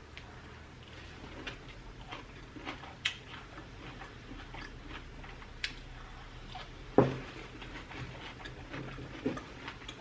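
Close-miked chewing and wet mouth clicks of someone eating sautéed bell peppers, with one louder knock about seven seconds in.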